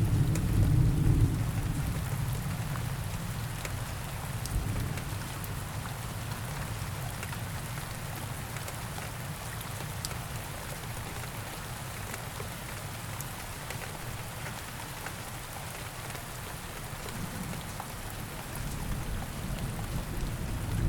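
Steady rain falling, an even hiss with scattered drop ticks. A low rumble of thunder dies away over the first couple of seconds, and another rumble builds near the end.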